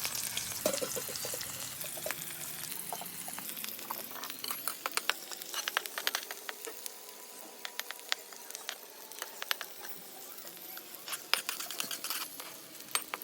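Chopped onions frying in hot oil in an iron kadai: a steady hiss with scattered crackles and pops, the sizzle gradually dying down.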